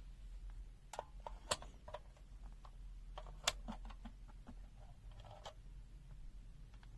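Faint, irregular clicks and taps from handling a multimeter and its test probes while it is being set up for an AC voltage test, over a low steady hum.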